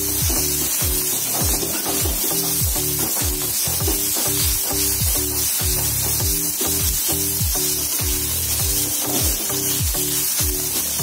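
Grated spiny gourd sizzling in hot oil as it is stir-fried in a kadai with a spatula. Background music with a deep, steady beat of about two notes a second plays over it.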